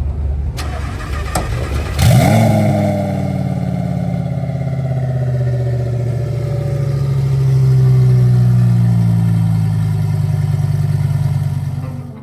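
High-powered drag car engine rumbling, then revving up sharply and running loud and steady for about ten seconds, its pitch slowly easing down.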